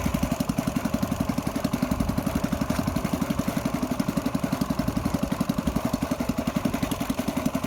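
A small fishing boat's engine idling with a steady, rapid, even pulsing.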